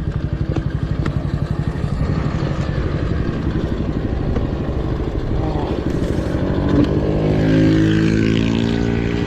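Racing motorcycle engine running hard, heard from an onboard camera, its sound pulsing quickly at first and settling into a steadier tone over the last few seconds.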